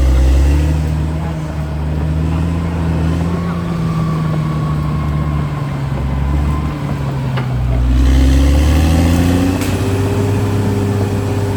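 CAT D6R XL bulldozer's diesel engine running under load, its note sagging and then climbing again in the last few seconds as it works.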